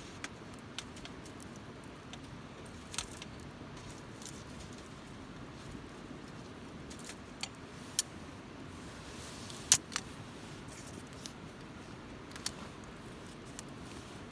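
Wood campfire burning over a steady low hiss, with scattered sharp crackles and pops from the burning wood; the loudest pop comes a little under ten seconds in.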